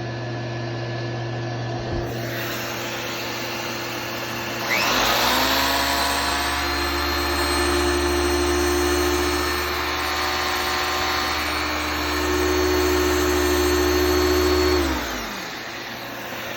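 Hoover Spirit 900 vacuum cleaner's motor switched on about five seconds in, spinning up with a quickly rising whine, running steadily for about ten seconds, then switched off and winding down with a falling whine, over a steady background hum.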